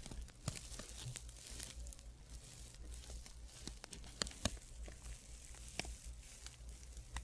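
Fabric being rubbed close to the microphone, an ASMR trigger: soft rustling with many small scattered crackles.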